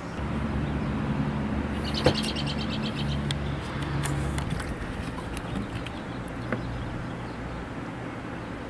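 A bird's quick chirping trill about two seconds in, over a low steady hum that fades out about halfway through, with a few small clicks scattered throughout.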